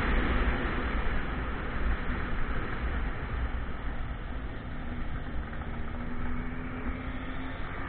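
Motorcycle riding: wind rushing over the microphone with the engine running underneath, growing quieter over the first few seconds as the bike slows, the engine's tone coming through more plainly in the second half.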